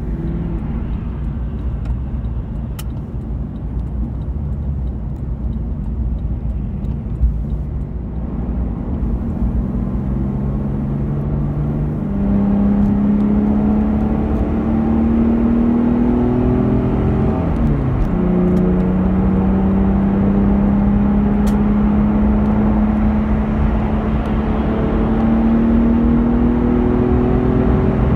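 Porsche 911 (996) flat-six engine heard from inside the cabin under way. The engine note climbs as the car accelerates and gets louder a little before halfway. It drops and picks up again at a gear change about two-thirds through, then holds a steady, slowly rising note over a constant tyre and road rumble.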